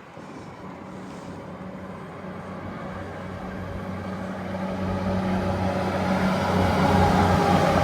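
A diesel train approaching, its steady engine drone growing louder throughout.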